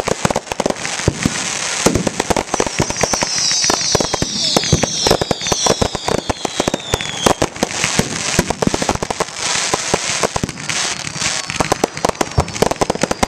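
Fireworks going off in a rapid run of bangs and crackles, with several whistles falling in pitch from about two to seven seconds in.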